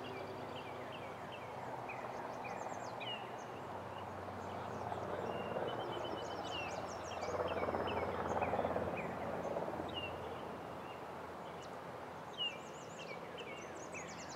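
Birds chirping: many short, quick high calls repeating on and off, over a steady outdoor background noise that swells about halfway through and then eases.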